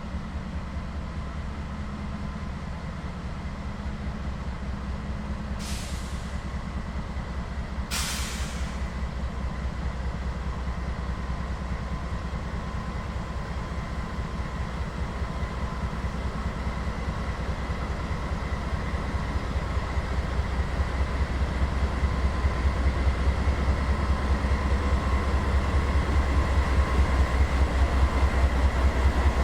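Diesel freight locomotives working, a deep pulsing engine rumble that grows steadily louder as the train draws nearer, with two short hisses about six and eight seconds in.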